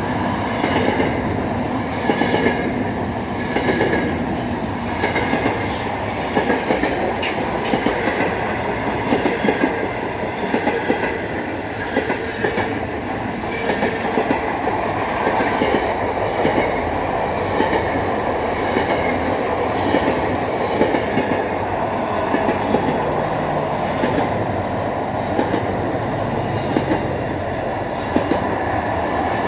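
A train running on the track: a steady rumble of wheels on rail with repeated sharp clacks, most of them in the first ten seconds or so.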